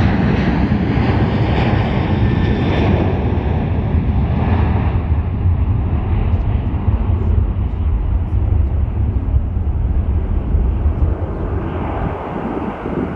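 Airliner departing at takeoff power: a loud, steady engine rumble whose upper hiss grows duller as it moves away, the level dropping near the end.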